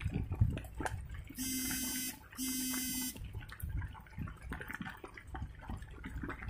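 Rain dripping and pattering with scattered drops striking close by. Two short buzzy beeps of equal length and steady pitch sound about a second and a half in, one right after the other.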